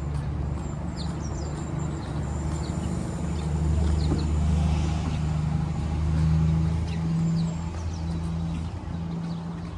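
Street traffic: a motor vehicle's engine running with a low, steady hum that grows louder in the middle and eases off near the end.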